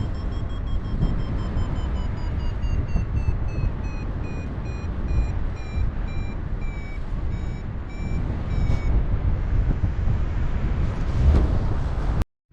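A paraglider's variometer beeping over steady wind rush on the microphone: a high tone glides up, then breaks into short beeps that slowly fall in pitch and stop about nine seconds in, the sign of the climb weakening. The sound cuts out briefly near the end.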